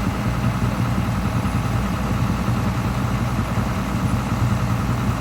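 A vehicle engine idling steadily, a low even drone with no revving.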